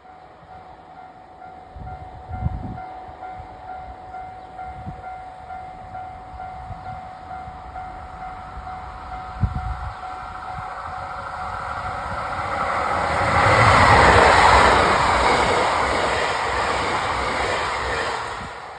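An express train approaches and passes over a level crossing. Its noise builds to a loud rush about fourteen seconds in and then eases off. A level crossing alarm rings steadily through the first half.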